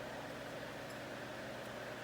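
Steady background hiss with no distinct knocks or changes.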